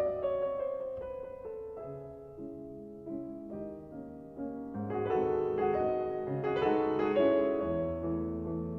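Background piano music: a slow, gentle passage that thins out and grows quieter in the first half, then swells again with fuller chords about five seconds in.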